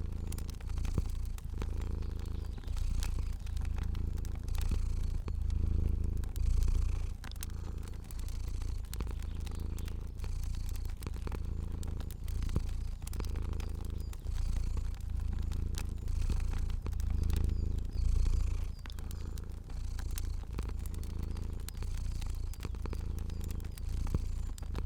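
Domestic cat purring steadily, the purr swelling and easing about once a second with its breathing. Scattered soft crackles of a fire run underneath.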